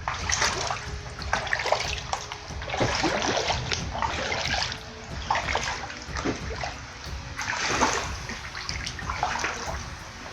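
Water splashing in irregular surges, over a low rumble.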